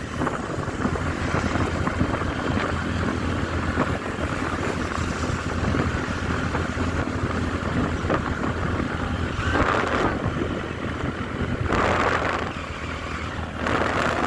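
Vehicle engine running on the move, with road noise and wind rushing over the microphone. Two brief louder sounds come about ten and twelve seconds in.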